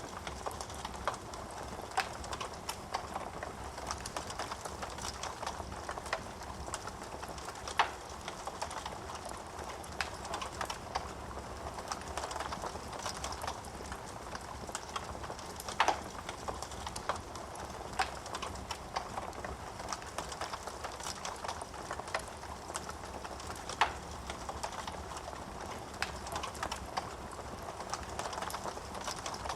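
Wood fire burning in a fireplace: a steady soft rush of flame with frequent small crackles and a few sharper, louder pops from the burning logs.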